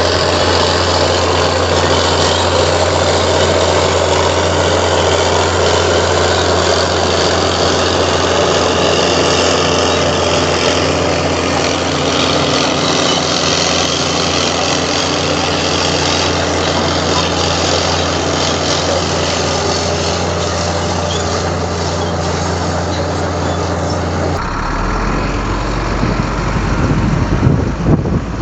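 Heavy diesel earthmoving machinery engine running steadily. About 24 seconds in, the engine note drops abruptly to a lower pitch, with a few knocks and thumps near the end.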